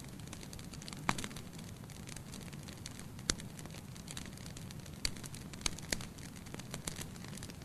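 Wood fire burning in a fireplace: a steady low rumble with irregular sharp crackles and pops, a few louder ones spread through.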